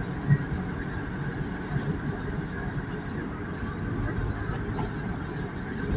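Passenger train running: a steady rumble heard from aboard a moving carriage, with a faint, thin high tone over it.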